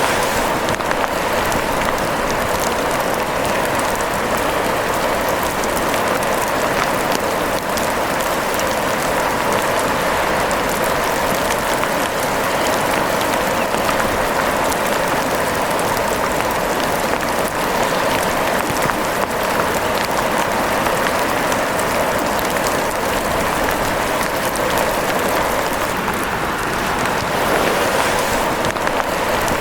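Steady rain falling on a surface: an even hiss with faint scattered drop ticks.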